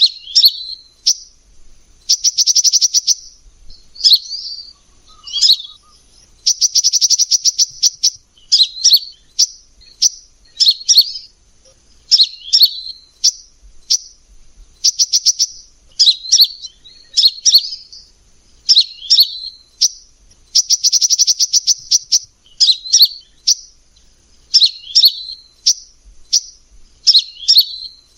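Kolibri Ninja sunbird singing: a run of sharp, high chirps repeated about once a second, broken every few seconds by a fast rattling trill.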